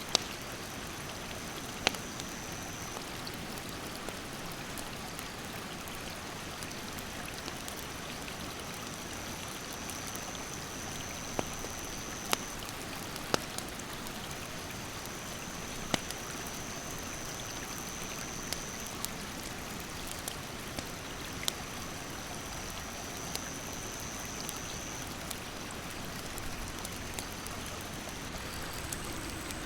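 Steady rush of a rocky stream, with sharp pops and crackles from a wood campfire every second or few, and a thin high insect call coming and going in stretches of several seconds.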